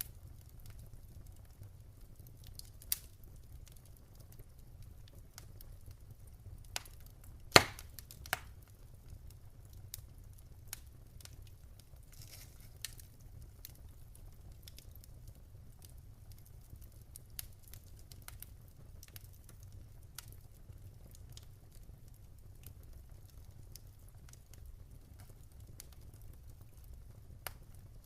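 Wood fire crackling in a fireplace: scattered sharp pops and snaps over a soft low rumble, with the loudest pop, a quick double snap, about a third of the way in.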